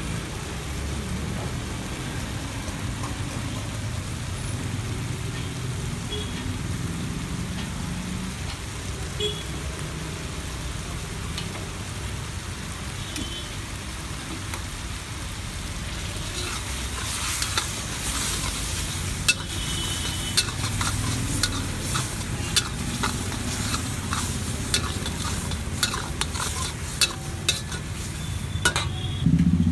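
Chilli chicken frying in oil and sauce in an iron wok, sizzling steadily. From about halfway on, a quick run of sharp clicks and knocks as the steel ladle stirs the pieces against the wok.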